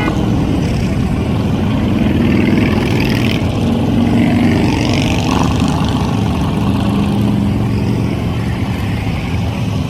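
Several motorcycle engines running together, loud and steady, with the engine note shifting up and down a little.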